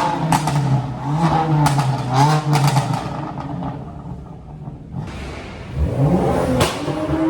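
A car engine running and revving, easing off about three seconds in and revving up again around six seconds, with several sharp cracks over it.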